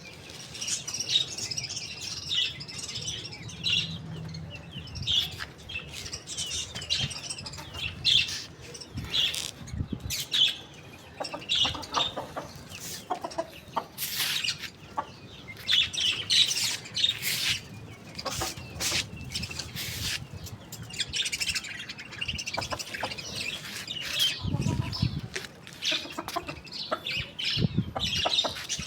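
Chickens clucking amid continuous chirping of small birds, with scattered sharp clicks.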